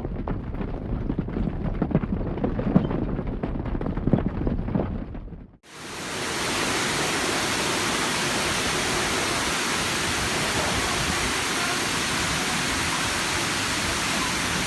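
An uneven low rumble that swells and falls. About five and a half seconds in it cuts off, and a steady, even rushing noise takes over.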